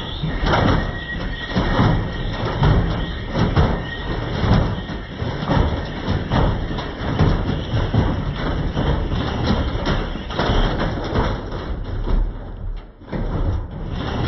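Beko washing machine run hard with its drum badly out of balance, the drum repeatedly knocking and banging inside the cabinet in a rough, uneven rhythm.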